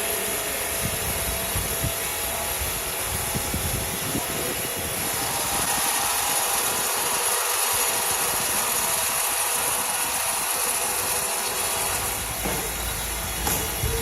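A motor running steadily, a constant mechanical noise with a bright hiss on top.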